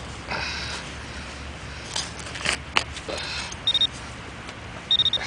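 Digging and scraping in soil, with a few scrapes and clicks, then short high electronic beeps in two quick clusters near the end from a metal-detecting pinpointer signalling metal in the hole.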